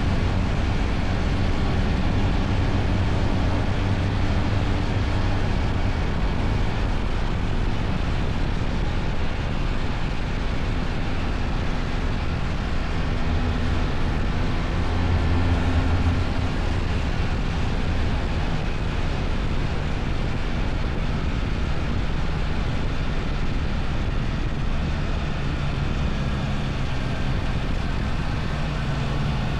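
BMW R1300 GS boxer-twin engine running steadily under way, with wind and road noise.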